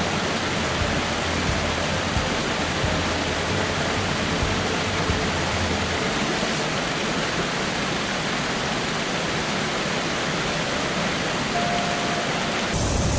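Floodwater rushing, a loud, even hiss of moving water; the deep rumble beneath it drops away about halfway through.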